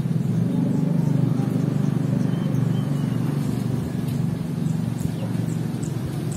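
Steady low engine rumble of a vehicle, with faint short high bird chirps repeating in the background.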